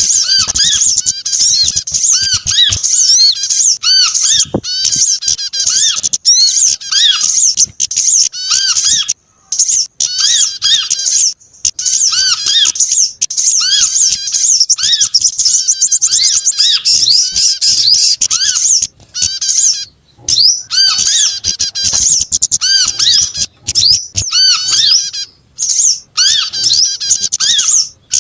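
Loud bird-lure recording of many small songbirds calling at once, prinias among them: a dense, overlapping stream of rapid high chirps and squeaky notes over a repeating, lower arched whistle. It runs almost without a break, dropping out briefly a few times.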